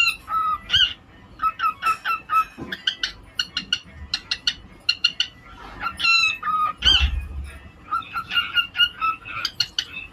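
Cockatiel singing: a busy run of short chirps and whistled notes, with a few longer notes that rise and fall.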